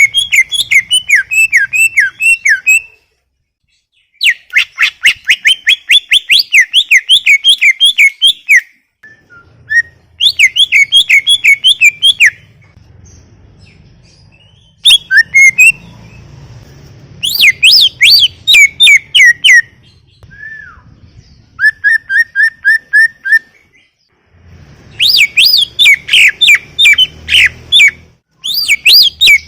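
Greater green leafbird (cucak ijo) singing continuously. It sings rapid bursts of sweeping whistled notes in phrases of two to four seconds, broken by short pauses.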